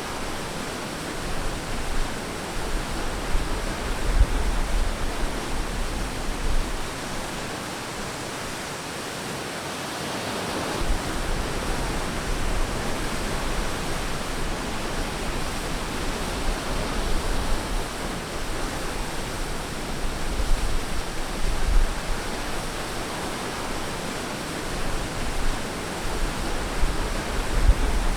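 Ocean waves breaking and washing on a beach: a continuous surf hiss that swells and ebbs, with a stronger wave about ten seconds in.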